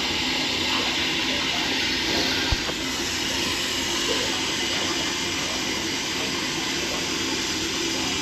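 Water running steadily into a storage tank as it refills, with one small click about two and a half seconds in.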